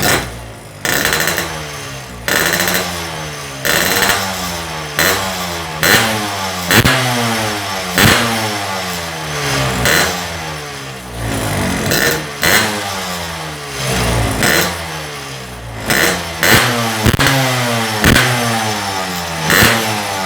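Motorcycle engine with an Altech C20 aftermarket exhaust being revved in repeated quick throttle blips, the revs jumping up and dying away after each, over and over.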